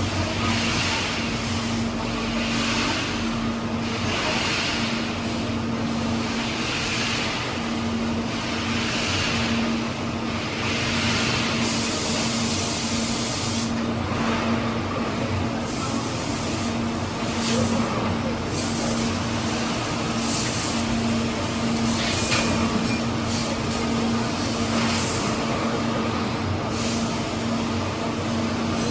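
A vehicle engine running steadily under road and traffic noise, with a brief burst of hiss about twelve seconds in.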